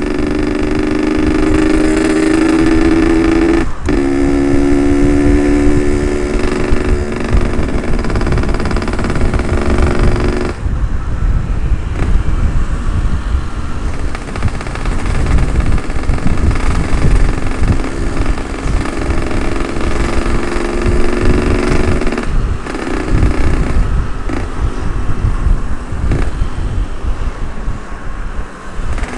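Yamaha RX-King 135's ported single-cylinder two-stroke engine under way, its pitch rising as it pulls, with a brief break at a gear change about four seconds in. It eases off about ten seconds in and runs on at a lower, steadier note, under heavy wind rumble on the helmet microphone.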